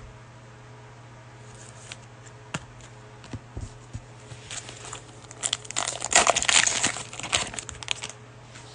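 Cellophane wrapper of a Mosaic basketball card pack crinkling and tearing open: a few scattered crackles, then a dense burst of crinkling for about two seconds, starting around five and a half seconds in.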